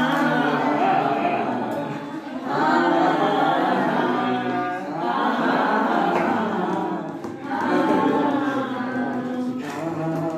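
A group of voices singing a Hindi film song together, unaccompanied, in long held phrases with short breaks between lines.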